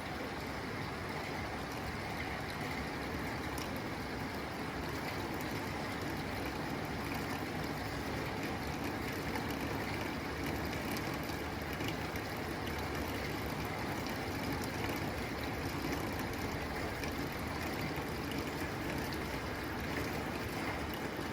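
Steady rain falling on a tin roof: an even, unbroken hiss with faint scattered drop ticks.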